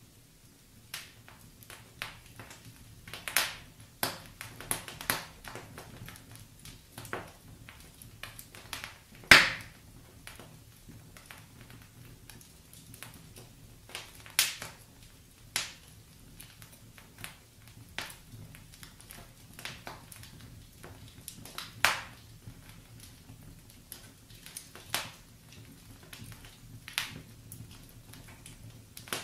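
Wood fire in a fireplace crackling: irregular sharp pops and snaps of burning logs, a few louder ones standing out, over a faint low steady rumble.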